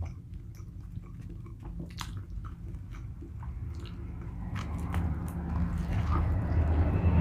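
A person chewing and biting food close to the microphone, with scattered wet mouth clicks and crunches. A low rumble builds up over the last couple of seconds.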